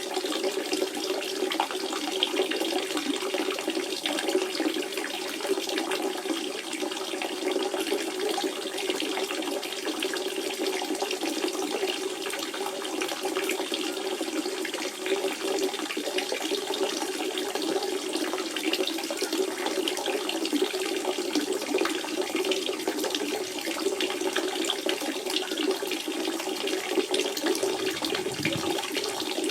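Natural spring water running and splashing in a steady stream, a continuous gurgling flow.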